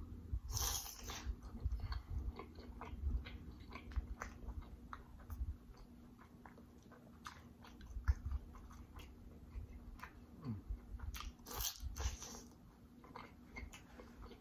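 Close-miked eating of smoked sausage: a bite about half a second in, then wet chewing with many small mouth clicks and smacks. Another loud bite or smack comes near the end.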